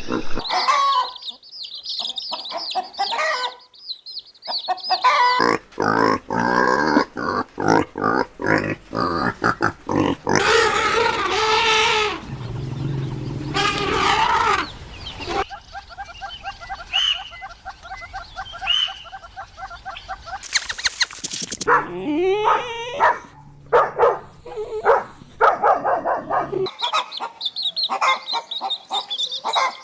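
Recorded animal calls played one after another, a different animal every few seconds. They include high pitched cries, a stretch of rapid repeated calls and some lower calls.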